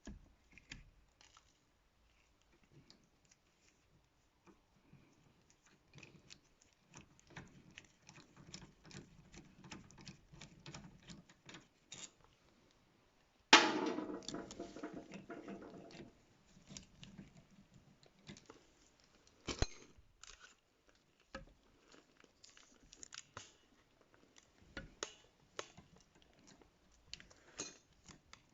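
Hand tools and metal brake parts being handled: scattered light clicks and clinks, with one loud metallic clang about halfway through that rings for a couple of seconds, and a sharp knock a few seconds later.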